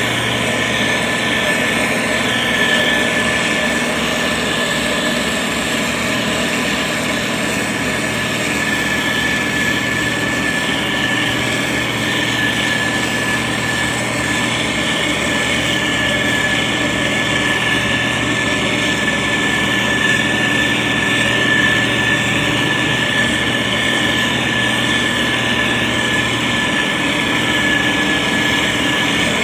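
Diesel engine of a SANY STG190C-8S motor grader running steadily under work, with a constant high-pitched whine over the engine hum.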